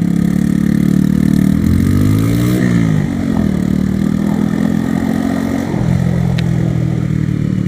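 Motorcycle engine running on the move, rising in pitch as it accelerates about two seconds in, then dropping sharply at a gear change and settling to a steady run.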